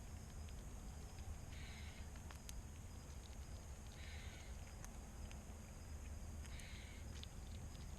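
Outdoor evening ambience: a short raspy buzz repeats about every two and a half seconds over a steady low rumble, with scattered small clicks.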